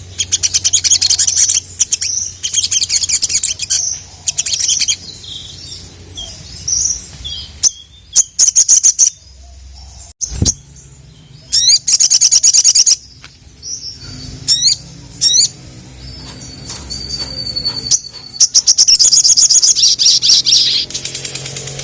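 Brown-throated sunbird (sogok ontong) singing in repeated bursts of very rapid, high-pitched chattering trills. Partway through come two quick rising whistles and a short held note before a final long burst of chatter.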